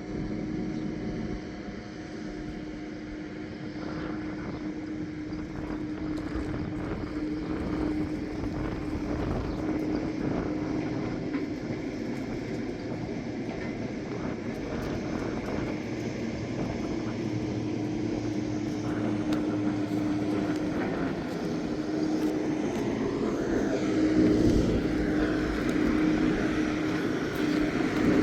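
A motor vehicle running with a steady engine drone over rumbling road noise, growing louder in the last few seconds.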